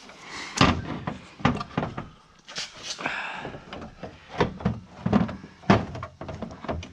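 A string of irregular knocks and thunks, with a brief scrape a few seconds in, from a car's front-end body parts (the bumper area) being handled and worked loose.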